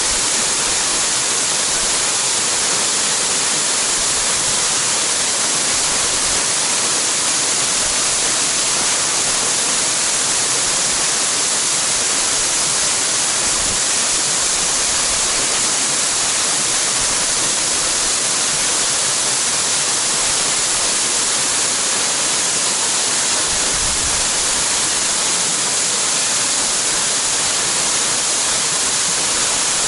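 Waterfall pouring into its plunge pool: a loud, steady rush of falling water that does not change.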